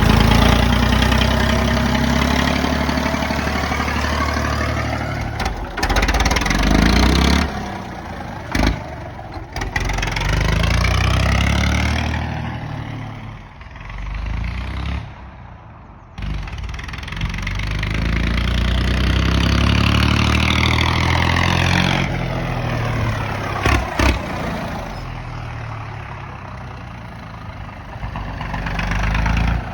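Massey Ferguson 135 tractor engine running through a straight pipe, revving up and falling back again and again as it is driven, with a quieter spell about halfway through. A few short sharp knocks come through along the way.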